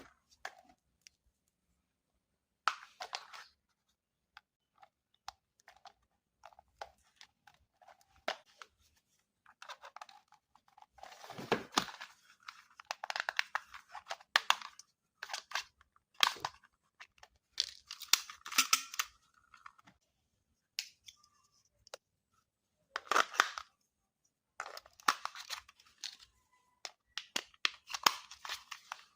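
Packaging being handled by hand: irregular short bursts of tearing and crinkling with sharp clicks, broken by gaps of silence.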